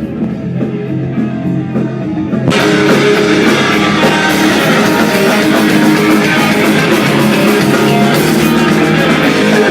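Rock music led by guitar; about two and a half seconds in it jumps to a louder, fuller band sound with drums and cymbals.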